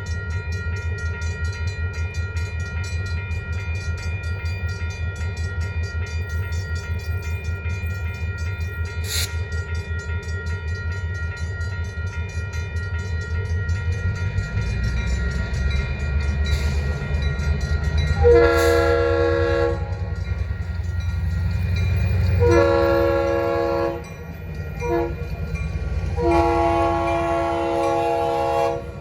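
A diesel switcher locomotive (EMD SW1500) rumbles past with a grade-crossing bell ringing rapidly and steadily. Its horn sounds two long blasts, a short one and a final long one: the standard long-long-short-long signal for a grade crossing.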